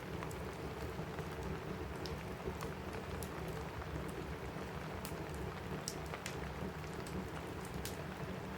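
Steady rain on a roof mixed with a crackling wood fire: a constant hiss and rumble with scattered sharp pops and snaps.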